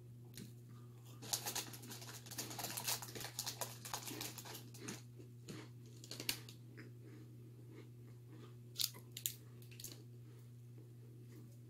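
Crisp, crunchy chewing close to the microphone, in a dense run of crackles for a few seconds and then a few isolated crunches near the end, over a steady low electrical hum.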